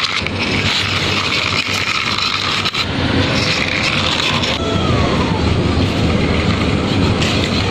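A motor vehicle engine running steadily, with a brief falling whine about five seconds in.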